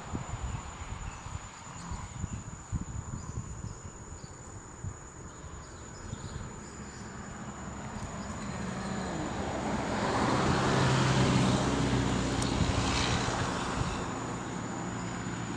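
Wind buffeting the microphone, then an engine passes by, its low hum growing louder to a peak about two-thirds of the way through and fading away near the end.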